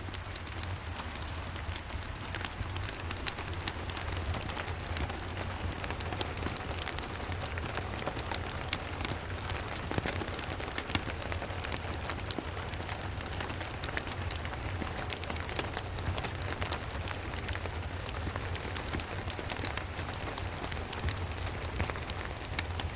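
Steady rain mixed with the close crackle and pop of a wood fire in a fireplace, with a constant low rumble underneath.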